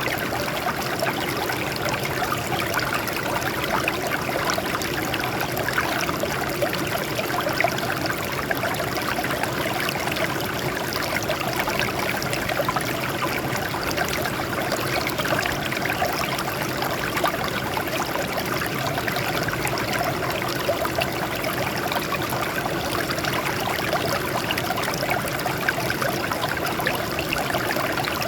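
Small stream of water flowing and trickling over rocks, a steady babbling with many small splashes.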